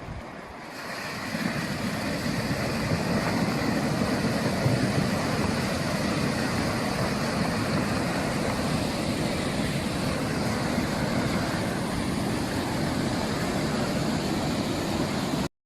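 Steady rushing water noise from a heavy downpour and flooding, swelling about a second in and then holding even until it cuts off abruptly near the end.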